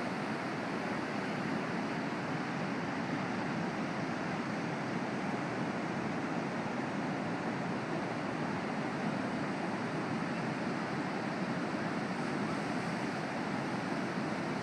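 Steady roar of Pacific Ocean surf, an even wash of noise with no single wave standing out.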